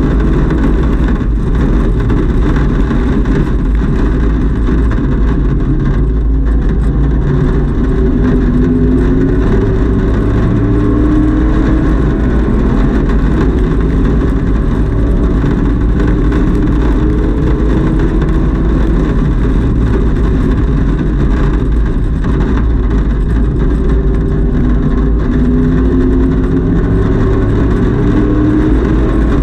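Camaro race car's engine running hard under racing load, heard from inside its stripped, roll-caged cabin. The engine note climbs and drops several times, over a steady rush of wind and road noise.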